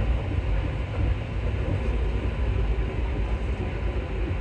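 Steady low rumble heard inside an Alstom MP14 rubber-tyred metro train.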